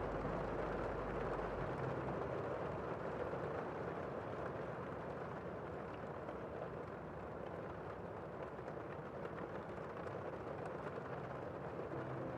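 Gentle rain falling outside a window, a steady, even hiss. A low hum underneath stops about two seconds in.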